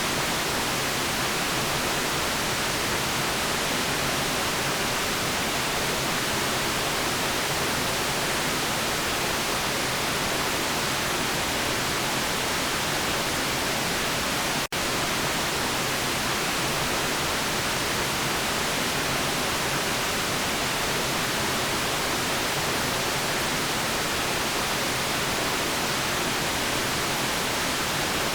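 Steady synthetic white noise, an even hiss across the whole range, with one momentary dip about halfway through.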